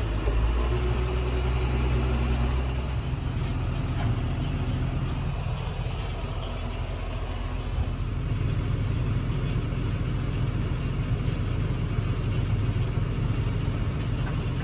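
Farm tractor's diesel engine running as the tractor gets under way. A steady engine hum gives way about three seconds in to a rougher, uneven running sound.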